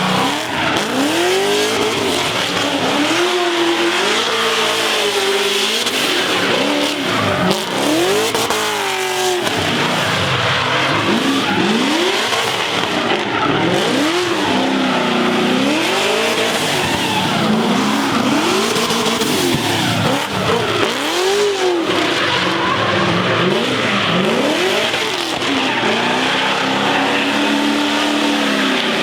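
A car doing a burnout: the engine revs up and falls back over and over, roughly every two seconds, over a constant squeal of spinning tyres.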